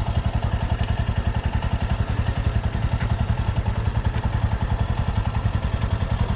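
Motorcycle engine idling at a standstill, a rapid, even beat that stays steady throughout.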